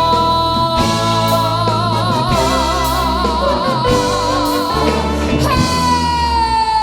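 Female singer holding the song's final note over a brass band's sustained closing chords, the note taking on a wide vibrato. About five and a half seconds in, she moves onto a last long note that slowly sinks in pitch.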